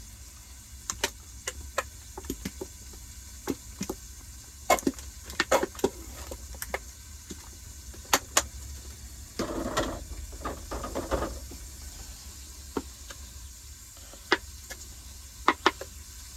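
Scattered light clicks and knocks from objects being handled, over a steady low rumble, with a short rustling, scraping patch about ten seconds in.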